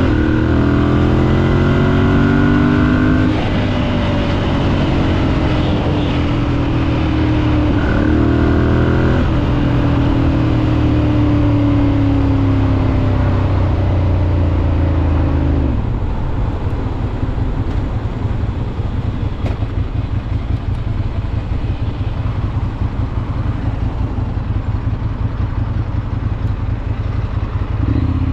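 Ducati Monster 796's air-cooled L-twin engine on the ride, accelerating through the gears with its note rising, breaking at shifts about 3 and 8 seconds in. It holds a steadier note until about halfway, then falls away to a lower, uneven rumble.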